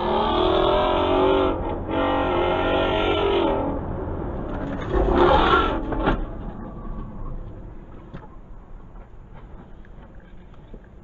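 A car engine revving hard in two long pulls, then a shorter, louder rev about five seconds in, before the sound dies away to a low steady rumble.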